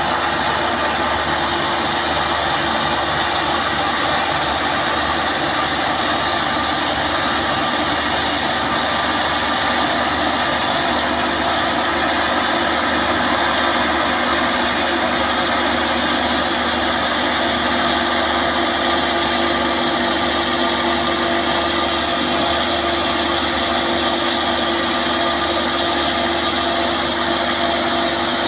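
A heavy machine's engine running steadily, a constant loud drone with a steady hum in it.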